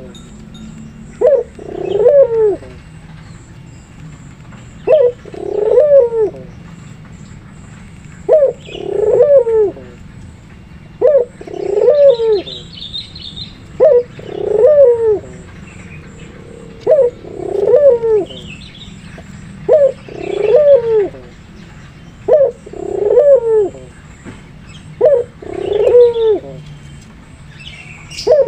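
Puter pelung turtle dove cooing, a short sharp note followed by a longer falling coo, repeated about every three seconds, about ten times. Faint high chirps of small birds come in here and there.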